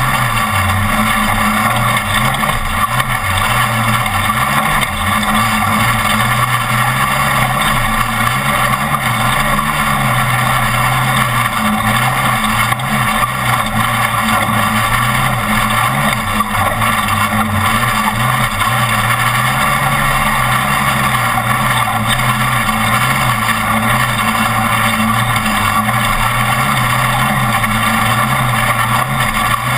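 Off-road race truck's engine running loud and hard, its pitch stepping up and down every second or so as the throttle changes, over a constant rushing noise.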